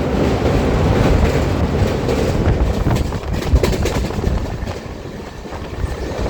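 Train running on the rails: a loud, steady rumble of wheels and carriage, with a few sharp knocks about three seconds in, easing a little near the end.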